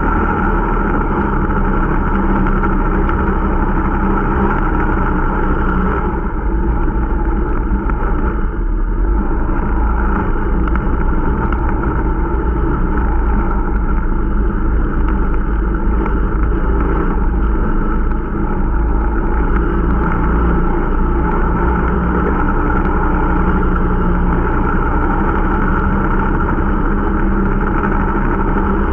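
Irbis Dingo T125 snowmobile's small single-cylinder four-stroke engine running steadily under way while it is being broken in.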